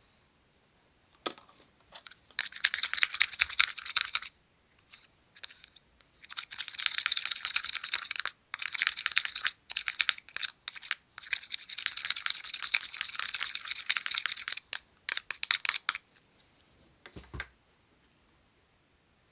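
Slime being worked by hand: dense runs of sticky, fast clicking crackles lasting a few seconds each, with short pauses between them.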